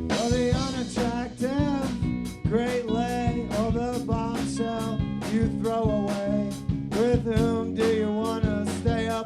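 Live band playing: a steady drum beat about two strokes a second under guitar chords, with a melody line of bending, swooping notes over the top.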